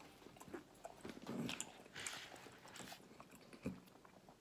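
Faint chewing and wet mouth sounds of a person eating a ham sub sandwich close to the microphone, with scattered small clicks and a couple of brief rustles.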